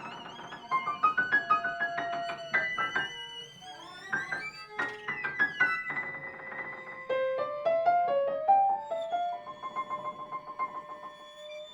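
Piano trio (piano, violin and cello) playing new chamber music: quick runs of separate piano notes against held, wavering string tones, with a steep slide in pitch about five seconds in and a slow upward string glide near the end.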